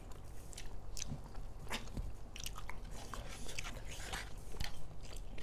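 A person chewing and biting food close to the microphone, with irregular soft clicks and crunches of eating.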